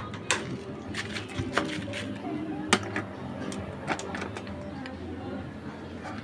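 Tools being handled on a tubeless truck tyre under repair: irregular metal clicks and knocks, the sharpest a little under three seconds in.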